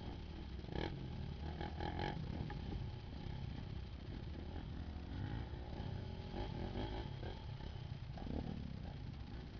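Dirt bike engine running at a low level, with a few brief revs.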